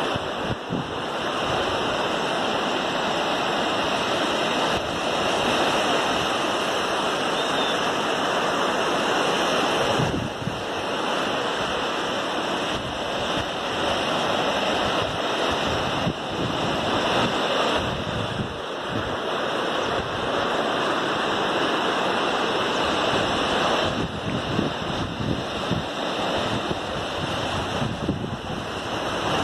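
Ocean surf breaking and washing in a continuous roar that swells and eases slowly, with wind on the microphone.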